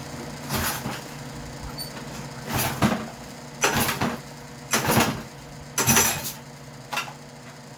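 Starter cord of a Craftsman 6.75 hp lawn mower's spring-assisted "easy pull" recoil starter being pulled about six times, roughly once a second, each pull a short rasp; the engine does not start.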